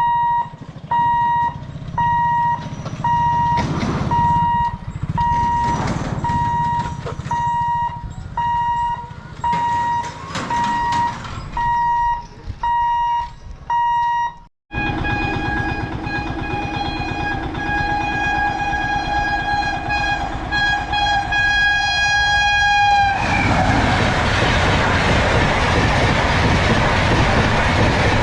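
Level-crossing warning beeper sounding a repeating electronic beep, roughly once a second. After a cut, an electric locomotive's horn sounds one long steady blast of about eight seconds, then a WAP7-hauled express train passes at high speed with a loud rush of wheel and air noise.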